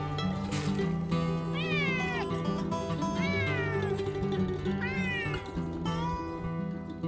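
A cat meowing three times, each call rising then falling, over background music with steady plucked notes.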